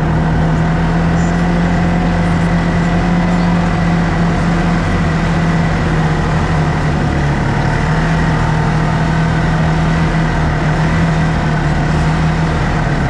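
Motor vehicle engine running steadily while driving, a constant hum that holds its pitch.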